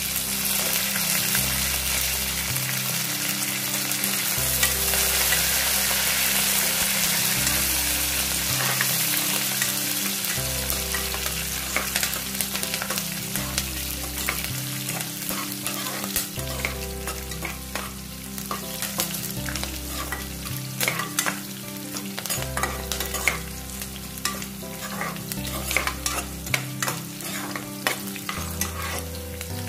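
Sliced onions, garlic, dals and fresh curry leaves sizzling in hot oil in a metal pot as a tempering, stirred with a steel ladle. The sizzle is strongest over the first ten seconds or so, just after the curry leaves go in. After that the ladle's scrapes and clicks against the pot come through often.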